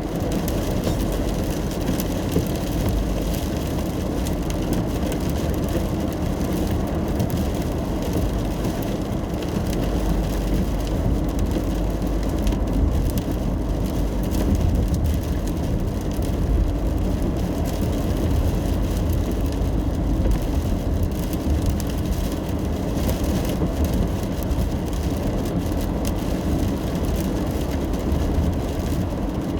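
Steady road noise inside a moving car driving in the rain: a low rumble of tyres and engine, with rain pattering on the car.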